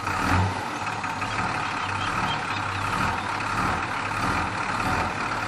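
Lorry engine running steadily with a low hum.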